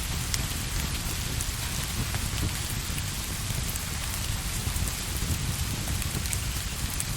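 Steady rain falling on a surface, with scattered light ticks of individual drops over a low rumble.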